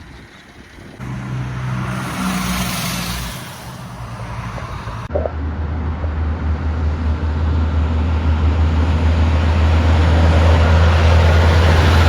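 Heavy road traffic. A vehicle passes with tyre and engine noise a second or so in. Then, after an abrupt change, a truck's diesel engine gives a strong low drone that grows steadily louder as it approaches.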